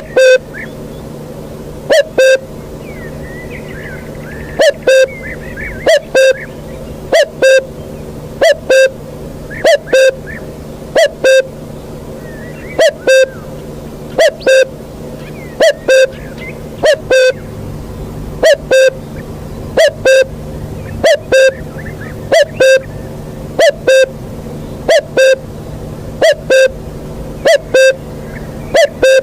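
A bird's low hooting call, a short two-note hoot repeated evenly more than twenty times, a little over a second apart, with faint twittering of small birds between the hoots.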